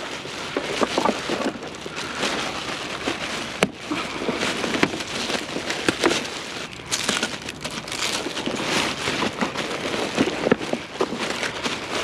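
Plastic bag rustling and crinkling as it is dug through by hand, with scattered clicks and taps of items being moved inside it.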